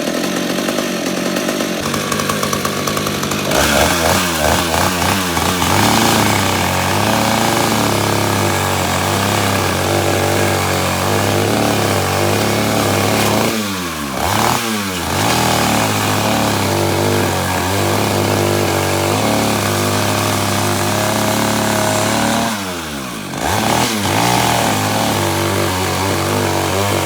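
Freshly rebuilt 1987 Taiga two-stroke chainsaw running at high revs after its rebuild with a new piston and rings. The engine speeds up a few seconds in, then twice drops in speed and climbs back up, about 14 and 23 seconds in.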